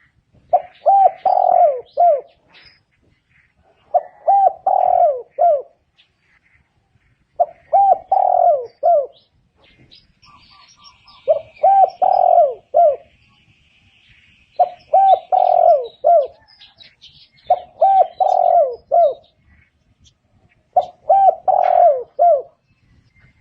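Spotted dove cooing: the same phrase of several low, rounded coos, about a second and a half long, repeated seven times at an even pace with short pauses between. Faint high chirps from other birds can be heard between the phrases.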